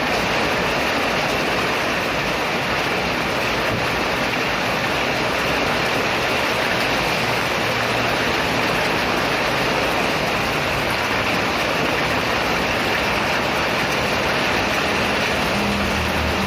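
Heavy rain pouring down steadily in a loud, even hiss. A low hum comes in near the end.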